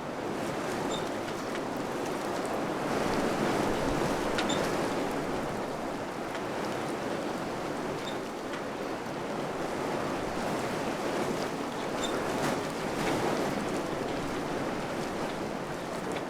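Wind blowing in gusts: a steady rushing that swells a few seconds in and again later on, with a few faint ticks.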